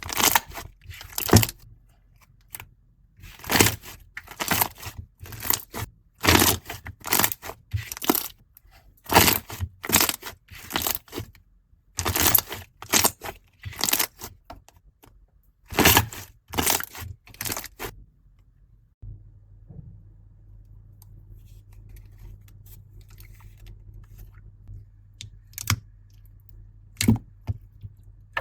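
Slime being squeezed and pressed by hand, giving bursts of sharp crackling and popping about once a second. About two-thirds of the way in the crackling stops, leaving a faint low hum with a few scattered pops.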